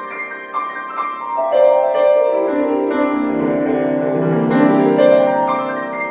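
Piano playing classical music. About a second and a half in, lower notes come in and the playing grows louder.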